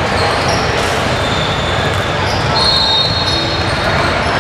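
Basketball game sounds in a gym: crowd chatter with the ball bouncing on the court, and short high squeaks, the longest about two and a half seconds in.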